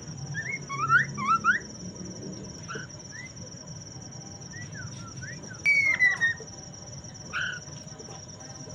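Poksay mandarin (a laughingthrush) singing in short rising whistled notes, a quick cluster about a second in and a louder falling whistle near six seconds. Under the song runs a steady high-pitched buzz like a cricket.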